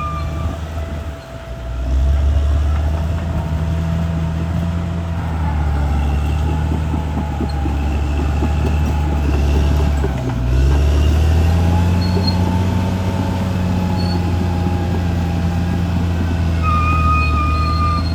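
CAT D6R XL bulldozer's diesel engine working under load, with a strong low hum. The engine pulls up about two seconds in, dips briefly about ten seconds in and picks up again. Thin high whines sound near the start and again near the end.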